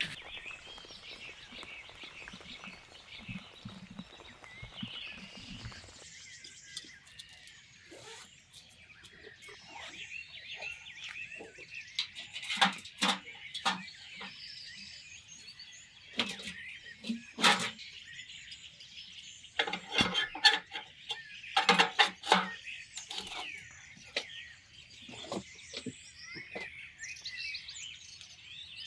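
Birds chirping and singing continuously, with scattered sharp knocks and clatter, a few of them loud, in the middle and later part.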